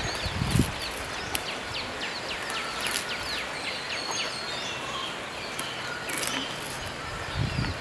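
Open-air rural ambience: a bird gives a rapid run of short, downward-sweeping chirps, several a second, from about a second and a half in for two seconds, over a steady hiss. There are a few sharp ticks, and brief low rumbles just at the start and near the end.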